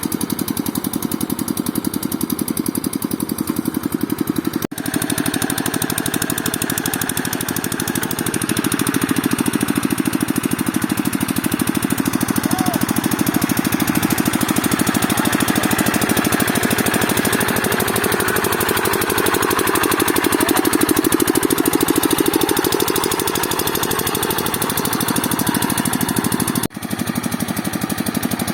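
Hand tractor's engine running steadily with a fast, even firing beat. The sound breaks off briefly twice, about five seconds in and near the end.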